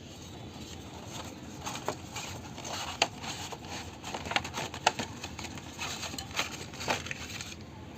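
Irregular sharp clicks and light taps, about a dozen, over a low rumbling background, like small hard objects being handled.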